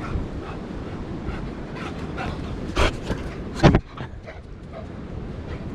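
A dog panting in short, regular breaths over a steady low rumble of strong wind on the microphone, with two brief loud sounds about three and three and a half seconds in.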